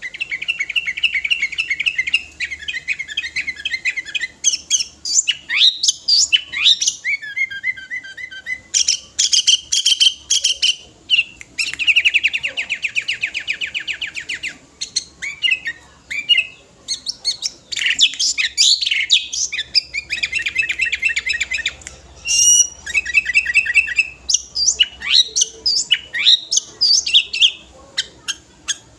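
Sooty-headed bulbul (kutilang) in full song, running through its learned repertoire: fast trills alternate with quick chattering and whistled notes, phrase after phrase with short pauses between.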